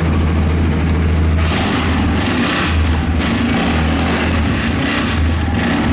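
CFMoto ATV engine idling, with a higher rattling buzz that comes and goes through the middle seconds: a loose exhaust heat shield vibrating, which goes quiet when the shield is pressed by hand.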